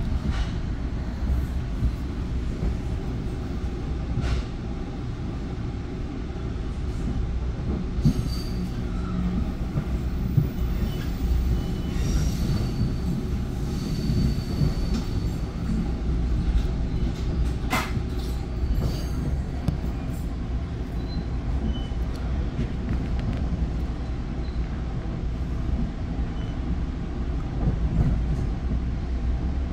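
A Bombardier MultiLevel commuter coach in motion, heard from inside the car: a steady low rumble of wheels on the track, broken by a few sharp knocks. A faint high wheel squeal comes in about halfway through.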